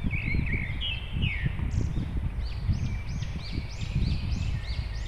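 A songbird singing a quick series of high, arched whistled notes, which become a regular run of rising-and-falling notes about three a second in the second half. Underneath is a steady low rumble of wind on the microphone.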